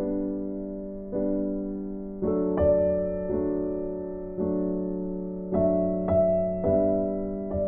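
Background music: slow, soft keyboard piano playing chords that are struck about once a second and left to ring and fade.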